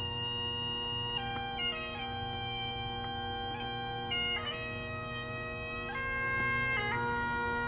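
Bagpipes playing a slow melody over their steady drone, the tune moving note to note above the unchanging drone.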